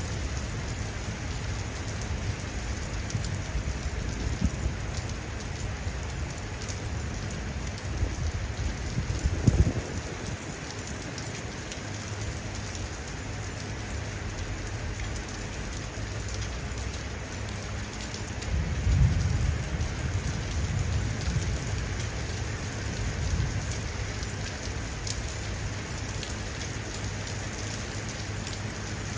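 Steady rain falling and splashing on surfaces, with rolls of thunder: a sudden, louder low clap about ten seconds in and another rumble a little past halfway.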